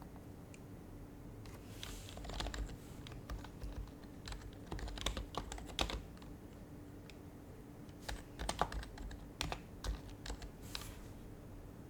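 Typing on an HHKB Professional HYBRID Type-S keyboard, its silenced Topre capacitive keys giving soft muted clacks. There are two runs of keystrokes with a pause of about two seconds between them.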